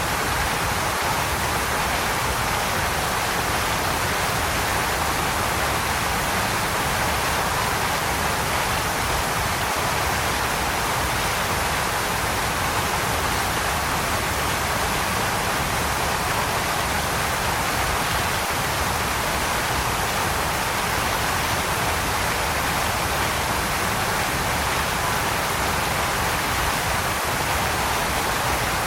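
Waterfall: falling water in a steady, unbroken rush that never changes in level.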